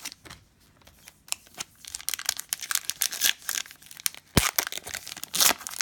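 A trading-card pack wrapper being torn open and crinkled by hand. The rustling starts about two seconds in as a dense, irregular crackle with many small clicks, and a sharp snap comes near the end.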